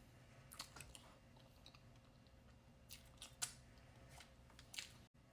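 Faint, scattered clicks and small cracks of seafood shells being picked apart by hand while eating, a few sharper snaps standing out.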